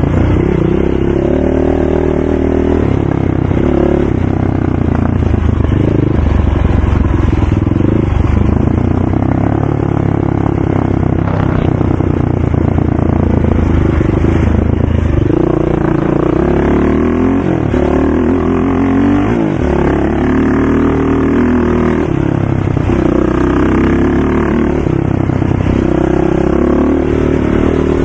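Racing ATV engine running hard, loud and continuous, its pitch repeatedly rising and falling with throttle and gear changes.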